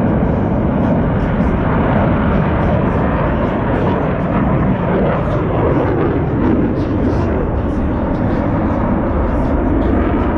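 Twin-turbofan jet noise from US Navy Blue Angels F/A-18 Super Hornets in flight, loud and steady throughout.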